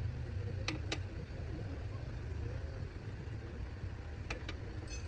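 Tractor engine idling steadily, with a few sharp clicks: two about a second in and two more near the end.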